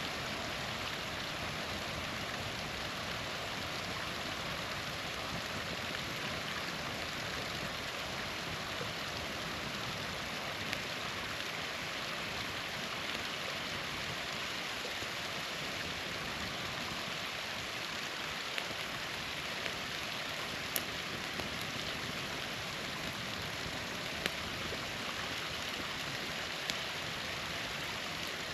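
Small waterfall rushing steadily, with a few sharp pops from a campfire scattered through the second half.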